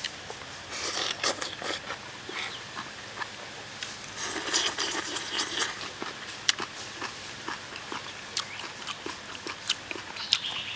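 Close-up eating noises: wet chewing and mouth clicks, scattered through, with two denser stretches of crunchy chewing, about a second in and again around the middle.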